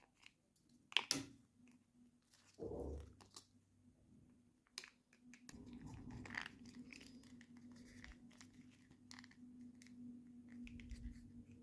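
Toy packaging being handled and opened: scattered clicks, crinkles and tearing of plastic and paper, with a sharp click about a second in. A faint low hum sets in about halfway.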